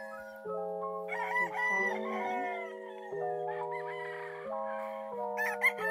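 A gamecock crowing about a second in, over background music of sustained chords that change every second or so. A couple of sharp clicks near the end.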